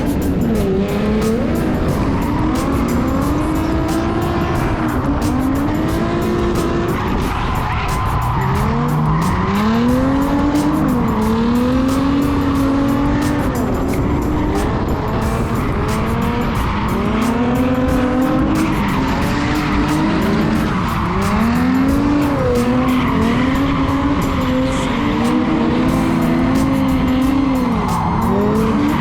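BMW E46 drift car's engine revving hard and falling back over and over, rising and dropping in pitch every second or two, with the tyres squealing steadily through the drifts.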